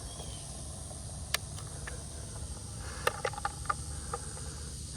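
A few sharp metal clicks, one alone and then a quick cluster about three seconds in, from an Allen wrench turning a skateboard truck's slotted kingpin, whose spring-and-ball detent clicks at each step of tightening. A steady high insect hiss runs underneath.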